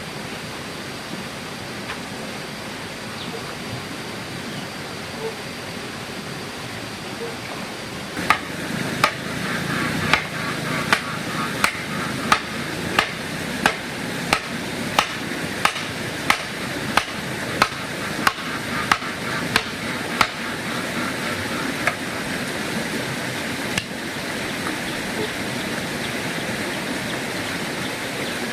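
A run of regular, hard blows from hammering, about three strikes every two seconds for some twelve seconds, then two lone strikes. The blows play over a steady rushing noise.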